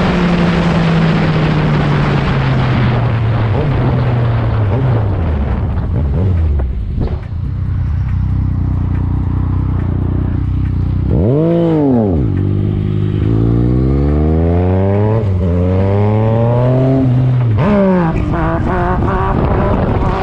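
Motorcycle engine slowing down with wind rushing past, then a quick throttle blip. It then accelerates hard through several gear changes, the pitch climbing and dropping back at each shift.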